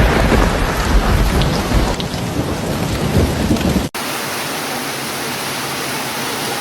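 Heavy rain with a low thunder rumble, which cuts off abruptly about four seconds in. It switches at once to steady rain with no thunder.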